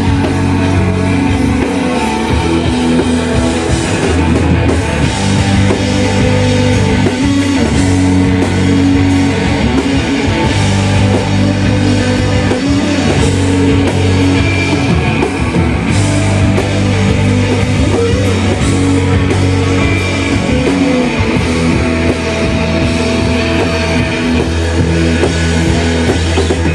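A live rock band playing loudly: dense sustained electric guitars over bass and drum kit.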